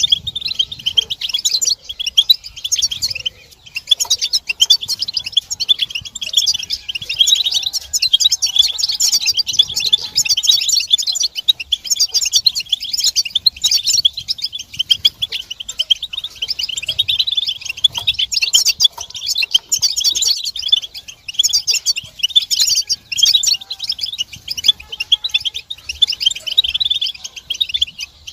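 Several European goldfinches twittering and singing together: a dense, unbroken stream of rapid high chirps and trills. These are the goldfinch's group chatter and mating calls, of the kind used to set a silent male singing.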